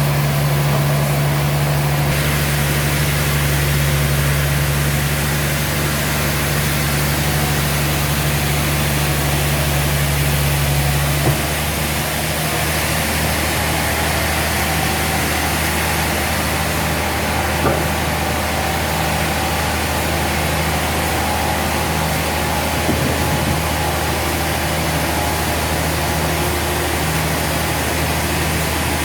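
Sawmill machinery running steadily with a deep engine-like hum and a hiss above it; the hum changes tone about eleven seconds in, and a few faint knocks come later.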